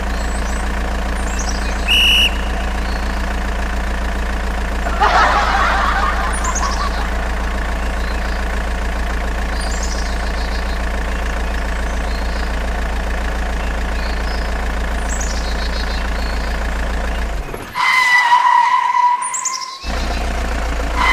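A steady, loud engine-like drone with a constant low hum. A short high beep sounds about two seconds in. Near the end the hum cuts out for about two seconds while a higher steady tone sounds, then the drone returns.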